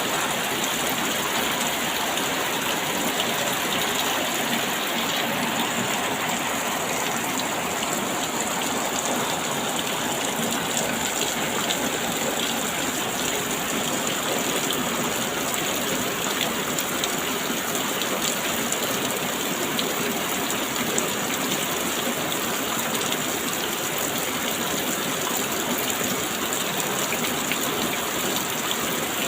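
Steady rain falling, an even hiss that holds at one level without let-up, flecked with fine drop ticks.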